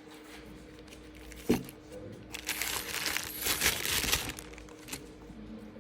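Handling noise: one sharp knock about a second and a half in, then about two seconds of crinkling, rustling noise, like plastic or packaging being handled.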